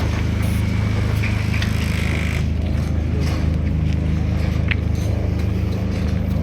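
Vehicle engine running steadily at a constant speed: an even, low drone with no change in pitch.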